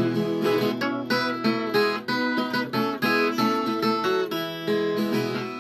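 Viola caipira, the Brazilian ten-string folk guitar, playing an instrumental run of quick plucked and strummed notes with no singing.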